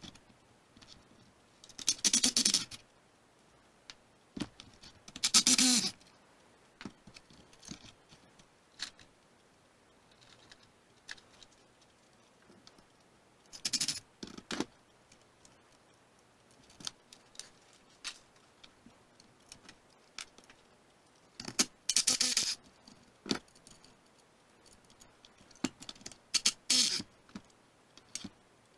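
Intermittent metallic clinking and scraping of parts or hand tools being handled, in about five short bursts with faint clicks between them.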